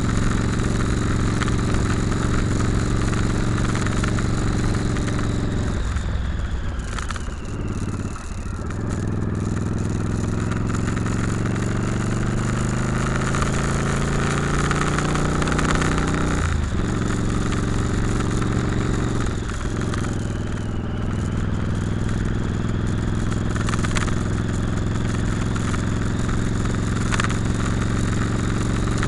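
Motorcycle engine running under way. The throttle eases off about six to eight seconds in, then the engine pulls again with a slowly rising pitch until a sudden drop just past halfway, like a gear change, and dips once more a few seconds later.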